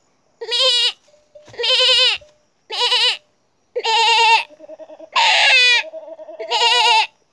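A boy imitating a goat's bleating with his voice: six short, quavering bleats about a second apart.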